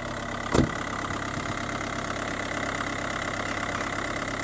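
Opel Zafira minivan engine idling steadily, freshly started. A car door shuts with a single loud thump about half a second in.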